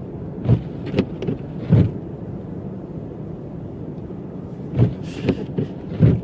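Car driving through snow, a steady low rumble broken by two clusters of short knocks and thumps, each about a second long and a few seconds apart.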